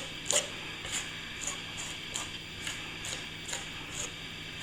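Light ticks at a fairly even pace, about two a second, over a faint steady hum, with one louder click about a third of a second in.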